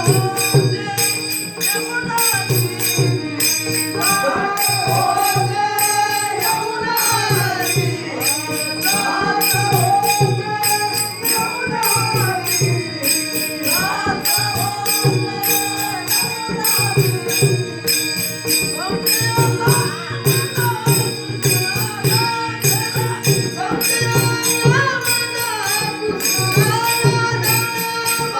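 Marathi Varkari bhajan: a male lead voice singing long, gliding phrases over a steady held drone, with small hand cymbals beating time in an even rhythm and a drum keeping the beat underneath.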